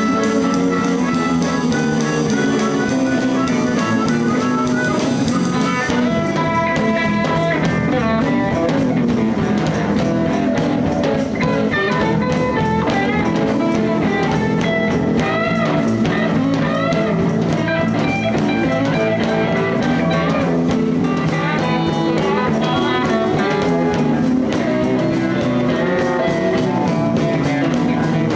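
Live blues band playing an instrumental break: a lead guitar solo with bent notes over bass and drum kit.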